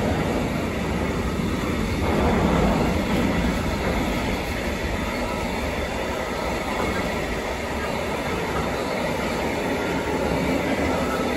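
Container freight train passing close by: the steady rolling noise of its flat wagons' steel wheels on the rails.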